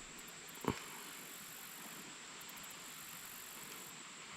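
Faint steady background noise of the outdoors, with one short click a little under a second in.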